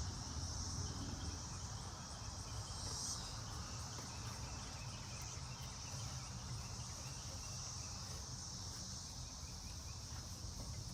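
Crickets chirping in a steady high-pitched chorus, swelling briefly about three seconds in, over a steady low hum.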